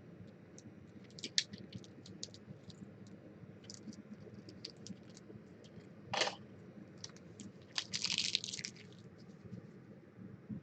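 Trading card packs and cards being handled: small scattered clicks and rustles, with a short louder rip about six seconds in and a longer crinkling burst about eight seconds in.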